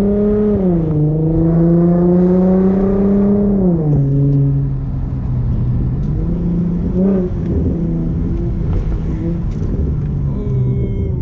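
Infiniti G35's VQ35DE 3.5-litre V6 pulling away under throttle, heard from the driver's seat with the window down. Its pitch rises, dips about a second in, climbs again, then drops sharply about four seconds in as the revs fall, and the engine runs on steadily at lower revs.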